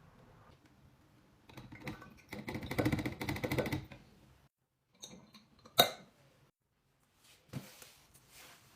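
Household items being handled: crinkling packaging with rapid small clicks for a couple of seconds, then one sharp clack, like a container being set down, about six seconds in, followed by fainter rustles and a knock.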